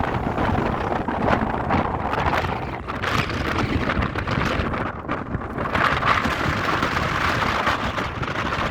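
Wind buffeting the microphone: a steady rushing noise with gusts.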